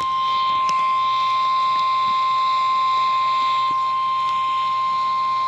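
NOAA Weather Radio warning alarm tone: one steady, unbroken high-pitched tone of about 1050 Hz, signalling that a warning broadcast is about to follow. A faint hiss runs beneath it.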